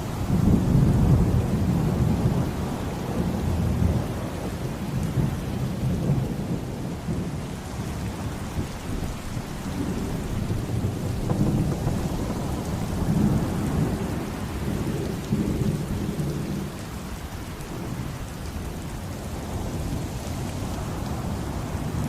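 Steady heavy rain with rolling thunder: a long loud rumble in the first few seconds and more rumbling roughly halfway through.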